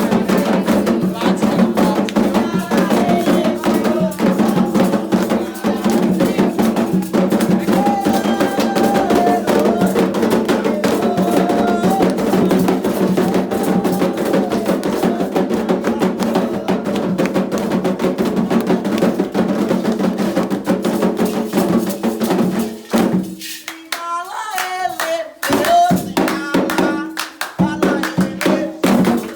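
Candomblé ritual music: fast hand drumming with a struck bell or wood-block pattern under group singing. About 23 s in the drums drop out for a couple of seconds, leaving a single voice singing, then the drumming and singing come back.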